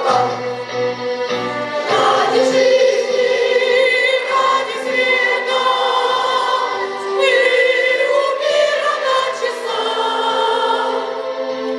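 A school choir singing a song in chorus, the voices holding long notes.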